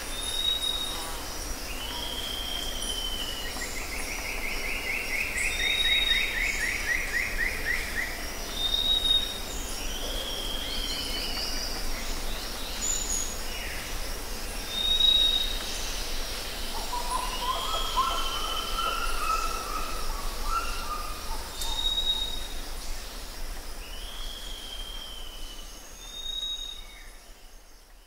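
Forest ambience with several songbirds calling over a steady hiss: a short high whistle repeated every few seconds, slurred downward calls, a fast trill early on, and lower warbled phrases past the middle. The sound fades out near the end.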